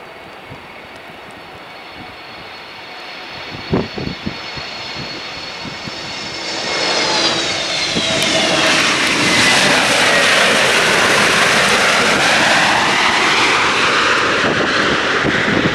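Airliner flying past close by on its landing approach. The engine noise builds from about halfway in and stays loud, with high whining tones that slide down in pitch as it passes, then cuts off abruptly at the end. There is a brief thump about four seconds in.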